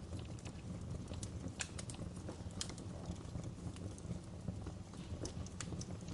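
Wood fire crackling in a fireplace: scattered sharp pops and snaps at irregular intervals over a low, steady rumble of burning.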